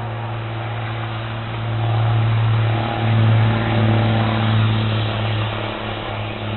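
A motor vehicle's engine running with a steady low hum that grows louder about two seconds in and eases slightly near the end.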